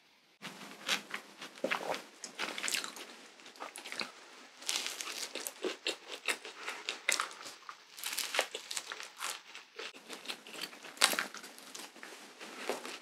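Close-up chewing and crunching of a mouthful of waffle with whipped cream and crunchy chocolate crumbs, many small irregular crunches.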